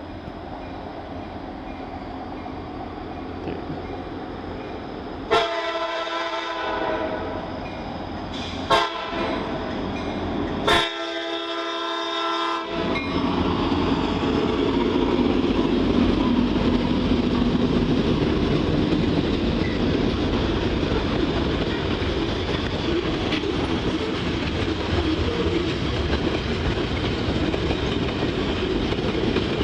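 Freight train diesel locomotive horn sounding for a grade crossing: a long blast about five seconds in, a short toot, then another long blast. The lead locomotives then pass close by, loud and running hard, followed by freight cars rolling over the rails with clacking wheels.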